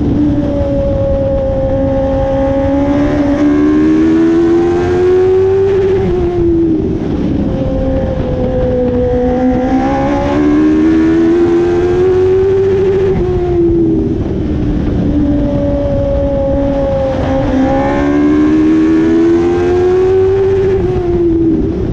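Dwarf race car's motorcycle engine running hard around a short oval track. The revs climb and then drop in a repeating pattern roughly every seven seconds, lap after lap, with the pitch falling at about 0.5, 7, 14 and 21 seconds.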